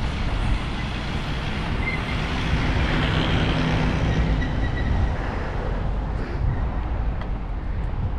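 Wind rushing over the microphone while cycling, with a motor vehicle passing; its engine hum swells and fades about two to four seconds in.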